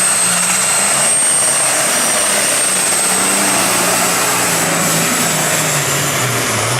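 Pulling tractor's engine running hard under load, with a loud steady high-pitched whine over dense engine noise. The engine's pitch eases slowly downward toward the end.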